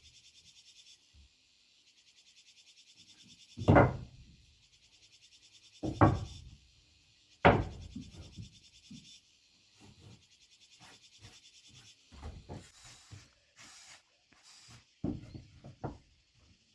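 Blows knocking pieces of timber together: three heavy knocks about two seconds apart, then a string of lighter taps and clatter. A steady, pulsing high-pitched buzz runs underneath.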